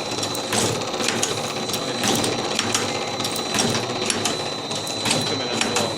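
Automatic cigarette filling machine running: a steady mechanical clatter with sharp clicks repeating roughly every half second and a faint steady whine.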